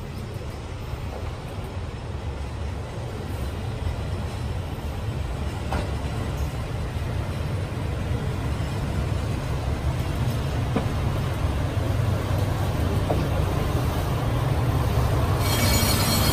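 KiHa 185 series diesel railcar pulling into the platform, its low engine and rail rumble growing louder as it approaches. Near the end a sudden loud high-pitched noise joins in as the train draws alongside.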